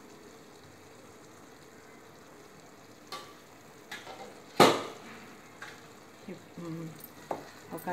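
Chicken masala sizzling gently in oil in an uncovered pot, with a few light clicks and one sharp knock about halfway through.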